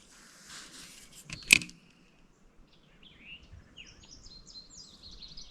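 A single sharp click about a second and a half in, followed by songbirds chirping and then a fast, rapid trill that starts near the end.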